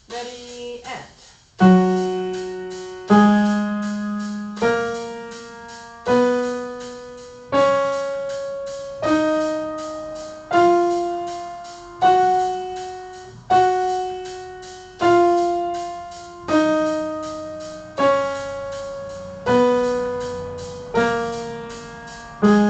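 Piano playing a slow chordal accompaniment to the F sharp major scale, one struck chord about every one and a half seconds, each ringing away before the next. The notes step up the scale and then back down.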